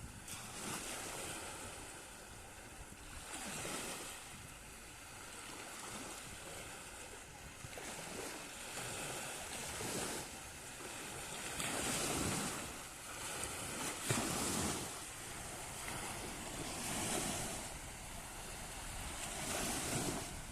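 Sea waves washing in and receding every few seconds, with wind buffeting the microphone. One brief, sharper crash about two-thirds of the way through is the loudest moment.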